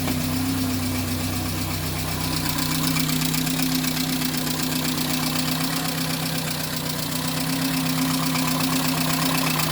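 Talbot Horizon's 1.1-litre Poissy four-cylinder petrol engine running steadily at idle, an even hum with no change in speed.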